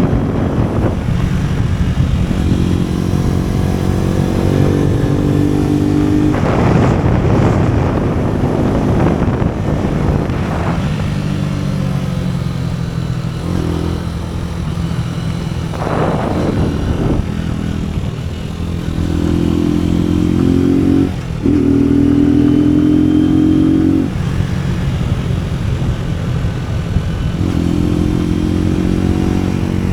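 AKT NKD 125 cc single-cylinder motorcycle engine running under way, its pitch rising and falling with the throttle, with a short break in the sound about two-thirds of the way through, as at a gear change. Two brief rushes of noise, about a quarter and halfway through, cut across the engine.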